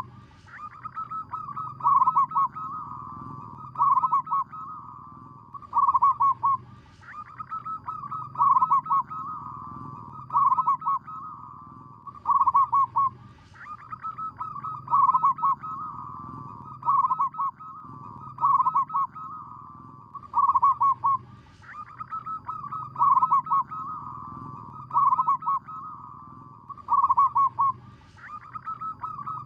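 Zebra dove cooing: its rapid stuttering coo phrases repeat about every two seconds, with a short break every few phrases.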